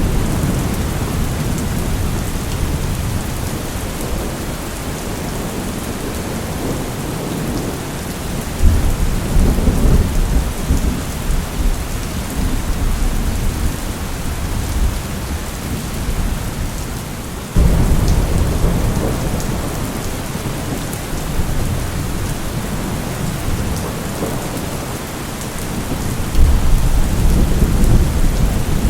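Steady rain with rolling thunder. Low rumbles of thunder swell up about a third of the way in, again suddenly about two-thirds in, and once more near the end.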